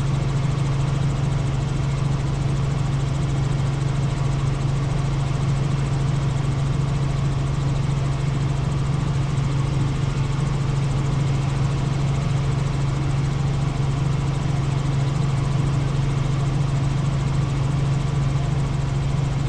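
Helicopter in flight: a steady, unchanging low drone of engine and rotor.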